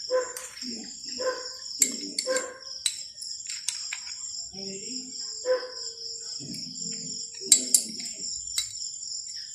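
Steady, high-pitched chirring of crickets, with low voices talking and a handful of short sharp clicks and taps, the loudest pair about seven and a half seconds in.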